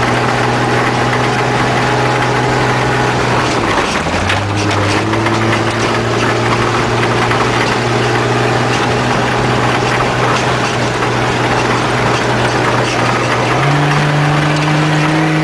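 Off-road race vehicle's engine heard from inside the cab, running steadily at low speed on a rough dirt trail. Its pitch drops about four seconds in and steps up again near the end, with a few knocks and rattles from the ride around four to five seconds in.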